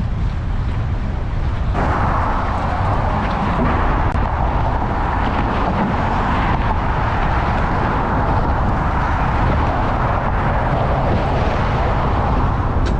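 Wind buffeting the microphone of a camera riding on a moving road bike, a steady low rumble. A higher steady rushing noise joins in about two seconds in.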